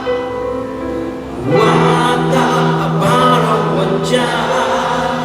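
Live rock band playing a slow song, with sustained sung notes over the band, in a raw audience recording.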